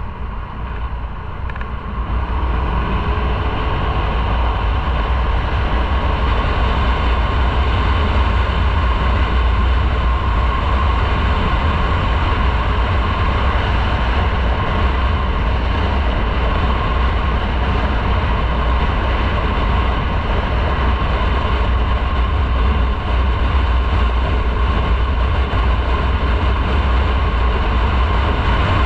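Motorcycle riding at a steady speed: engine and wind noise, which gets louder about two seconds in and then holds steady.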